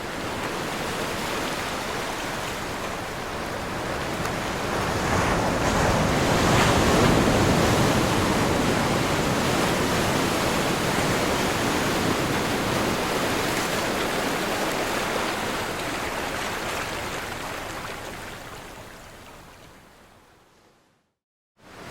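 Ocean surf: a steady rush of breaking waves that swells to its loudest about six to eight seconds in, then fades away near the end.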